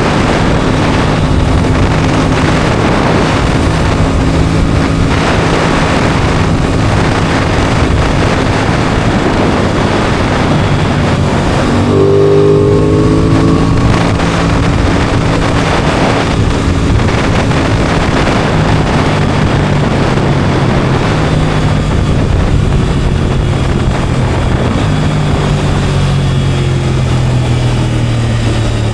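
Aprilia Tuono 660 parallel-twin engine running under way. About twelve seconds in it revs up quickly, then holds a steadier note, and near the end its pitch drops as it slows.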